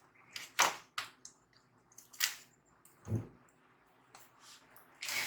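Scattered short clicks and taps of laptop parts being handled, with a duller knock about three seconds in and a quick cluster of clicks near the end.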